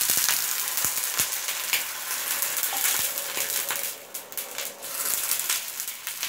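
Chopped onion, chilli and curry leaves sizzling in hot oil in an iron kadai, with a few knocks of a steel ladle against the pan in the first three seconds. Near the end, water is poured into the hot pan.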